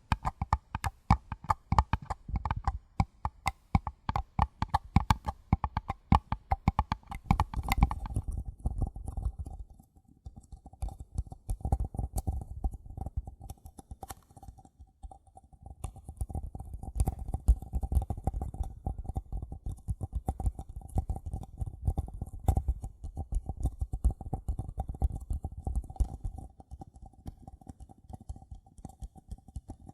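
Paper cups tapped quickly and repeatedly by fingers, a run of light, hollow taps. About eight seconds in the tapping changes to a softer, denser pattern over a steady ringing tone.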